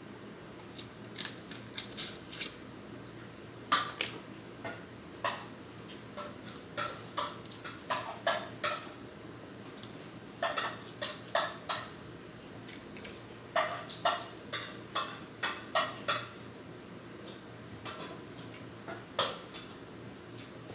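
Tableware clinking at a meal: spoons and forks knocking against plates and bowls in many short, irregular strikes, often several in quick succession.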